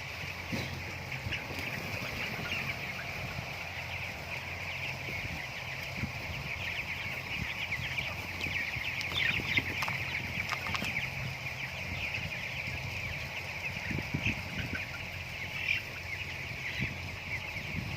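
A flock of broiler chickens chirping continuously, many short overlapping calls, over a steady low hum.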